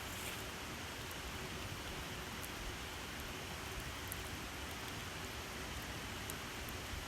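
Wood campfire burning: a steady hiss with a few faint, sharp crackles scattered through it.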